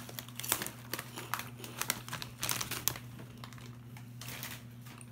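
Snack bag of sweet potato crisps crinkling as it is handled, with a quick run of crackles that thins out after about three seconds, over a steady low hum.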